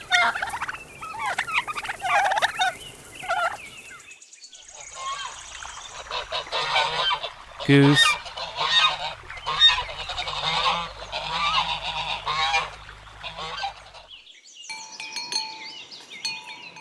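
A turkey gobbling for the first few seconds, then domestic geese honking over and over for about ten seconds. Near the end, light chime-like ringing tones take over.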